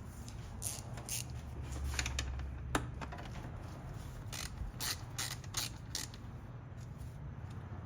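Hand ratchet clicking in short irregular runs, with a few sharper clicks, as the mass airflow (MAF) sensor is being taken off.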